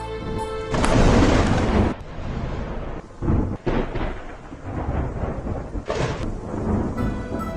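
Deep, rolling rumble like thunder, loudest in a surge about a second in, then rising and falling in uneven waves with a short, sharper burst near the end.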